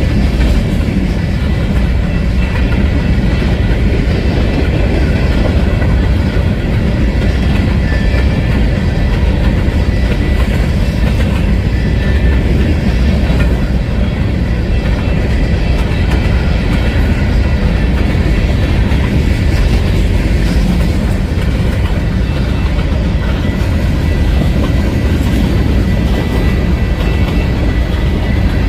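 Train rolling past close by: a steady, loud rumble of wheels on rail with clickety-clack over the rail joints and faint thin high tones above it.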